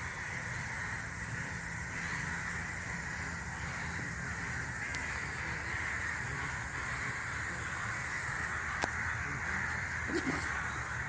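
Forest ambience: a steady high-pitched chorus of wild creatures, with a couple of short clicks near the end.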